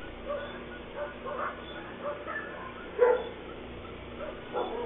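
Dog barking and yelping: short calls every half second or so, with one louder bark about three seconds in.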